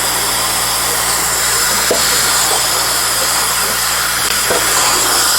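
Compressed air hissing steadily out of a water heater's open water lines as it is blown into the tank to agitate the vinegar inside, with a steady low hum and a few small gurgles from the vinegar sloshing in the tank.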